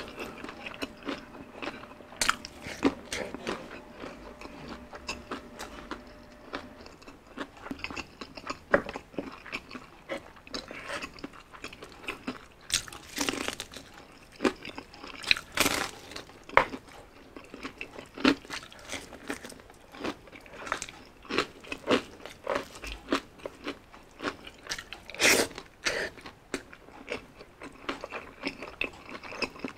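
Person chewing and biting crispy spicy fried chicken, a steady run of irregular crunches with several louder crunching bites.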